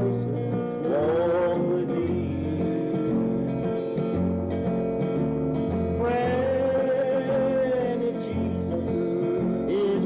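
Country-style gospel band music: guitars playing over a plucked bass line that steps from note to note, with sliding melodic notes about a second in and again around six seconds.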